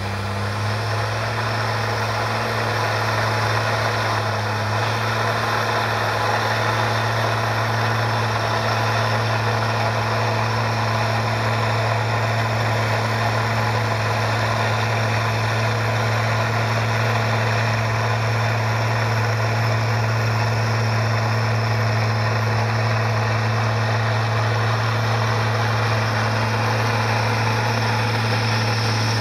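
Komatsu bulldozer's diesel engine running steadily at a constant speed, picking up slightly about a second in, then cutting off abruptly at the end.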